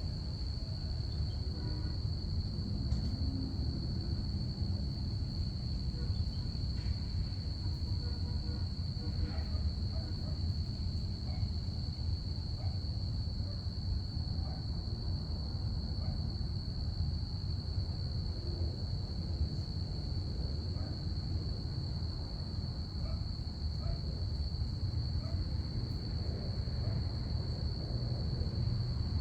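Crickets chirping in one continuous high trill, over a steady low rumble.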